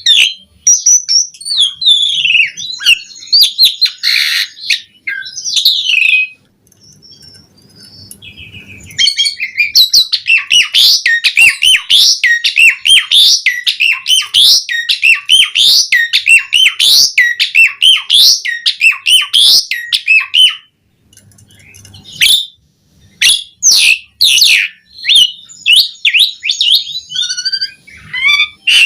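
Asian pied starling (jalak suren) singing a varied song of whistles and chattering notes. A long, dense run of rapid notes fills the middle, with short lulls before and after it.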